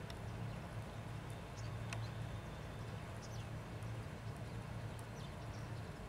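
Faint, short, high bird chirps, a few times and a second or more apart, over a steady low rumble.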